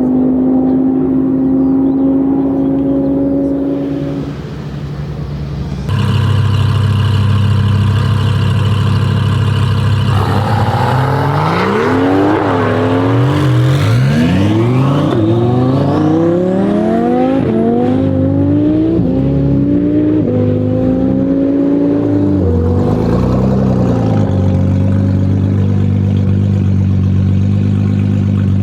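Twin-turbo Audi R8 V10 engine held at a steady note, then accelerating hard through several gears, its pitch climbing and dropping back at each upshift about halfway in, before settling to a steadier drone near the end.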